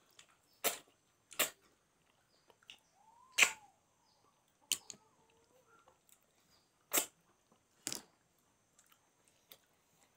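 Sharp, wet mouth smacks and clicks of someone chewing food, about six of them at irregular intervals a second or more apart.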